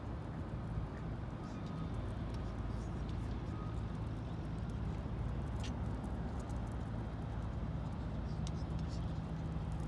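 Steady low engine hum, like traffic, with scattered light clicks.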